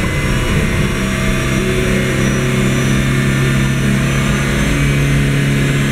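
Mercedes-Benz W203 C200 Kompressor's supercharged 1.8-litre four-cylinder engine held at about 4,000 rpm in Park for an engine test. It runs steadily, edging slightly higher once or twice, heard from inside the cabin.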